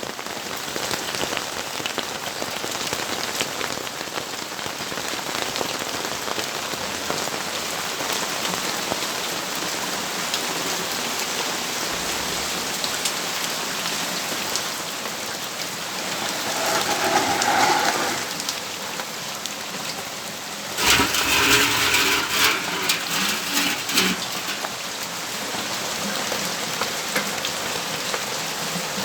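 Steady rain falling, with many individual drops striking close by. About sixteen seconds in a louder sound swells for a couple of seconds, and a little later a stronger, ragged louder sound lasts about three seconds.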